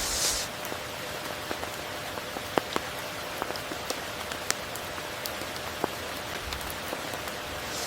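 Steady rain falling, an even hiss with sharp drip clicks scattered through it and a brief hissing swell right at the start.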